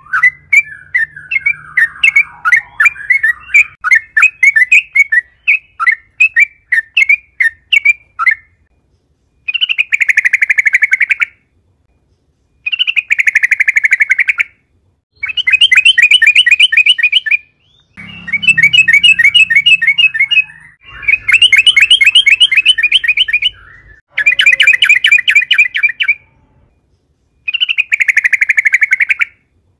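Trucukan (yellow-vented bulbul) singing. For the first eight seconds it gives a string of quick separate chirps, then a run of rapid bubbly phrases, each about two seconds long, repeated with short gaps.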